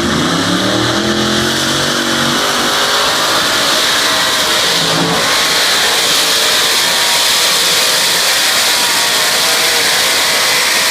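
Diesel pulling tractor's engine at full throttle on a pull: its pitch rises over the first couple of seconds, then it runs flat out, loud and steady.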